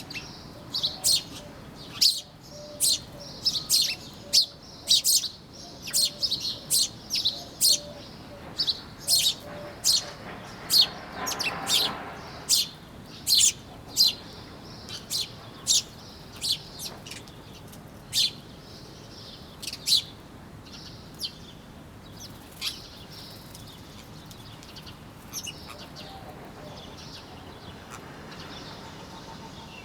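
Small birds chirping: a quick run of short, sharp, high chirps, packed close together for the first half and thinning out to scattered chirps in the second half.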